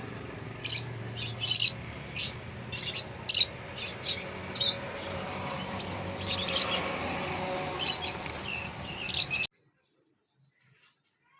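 Lovebirds in an aviary giving many short, sharp chirps over a steady background hum; the sound cuts off suddenly near the end.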